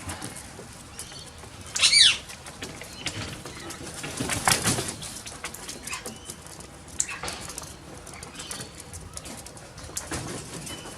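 Wild parrots at a seed feeder: one loud, shrill call about two seconds in, then wing flaps and scattered small clicks and scuffles.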